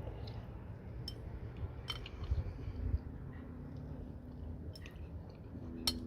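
Eating sounds: chewing, with a few sharp clicks of cutlery against a dish, over a steady low rumble.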